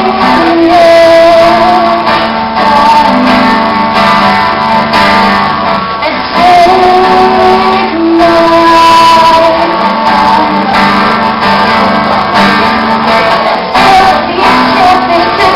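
A woman singing live over guitar, the recording loud and of rough quality.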